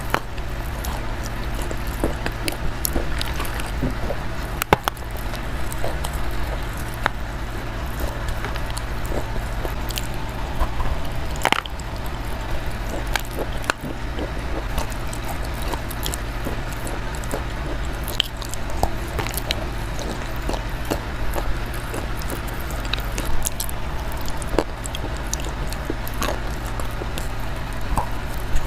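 Close-miked biting and chewing, with many small crunching clicks scattered throughout over a steady low hum.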